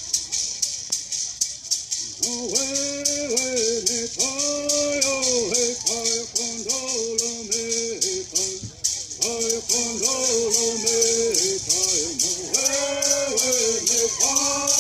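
Bird singing: gourd rattles shaken in a steady, even beat, about four or five shakes a second, with a group of singers joining in unison about two seconds in.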